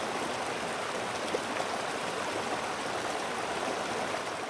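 Recorded rain and running-water sound played by a sleep sound machine: a steady, even hiss with no pauses.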